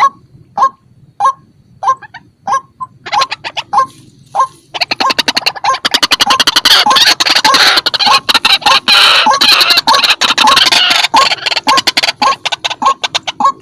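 White-breasted waterhen calling: a loud series of single repeated notes, about one and a half a second. From about five seconds in they swell into a dense, fast run of harsh notes lasting several seconds, then thin back to spaced notes near the end.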